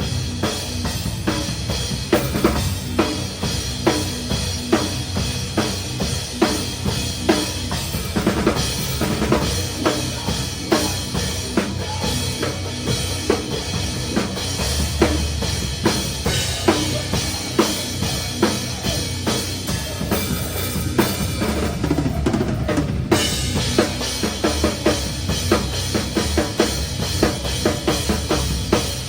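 Metalcore band playing live, heard from the drum kit: a rock drum kit with fast, driving kick and snare hits over distorted guitars and bass, the drums loudest.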